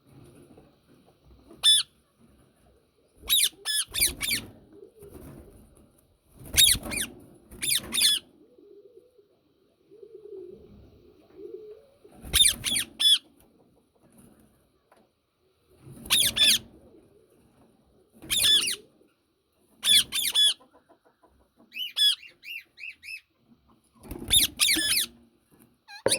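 Yellow (lutino) Indian ringneck parakeet screeching: loud, harsh shrieks in short bursts, often doubled, a few seconds apart, with a run of quicker chattering notes a little before the end.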